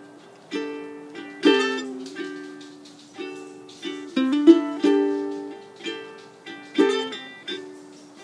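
Ukulele played alone in an instrumental break, chords struck about once a second and each left to ring and fade.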